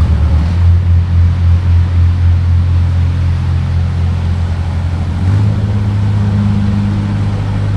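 Narrowboat diesel engine running under way, with a pulsing throb for the first few seconds. About five seconds in it speeds up a little, then runs steady.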